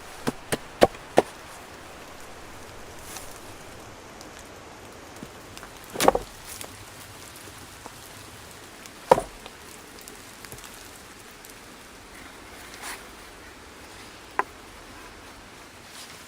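Wood knocking against wood during shelter work: a quick run of four sharp knocks at the start, then single heavier thumps about six and nine seconds in and a sharper knock near the end, over a steady outdoor hiss.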